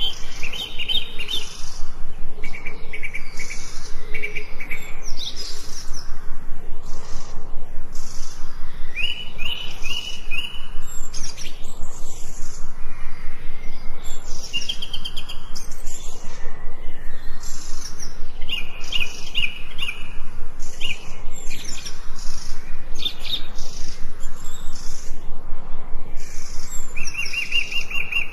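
Forest birdsong: several birds singing, with short trilled phrases repeated every few seconds and scattered chirps.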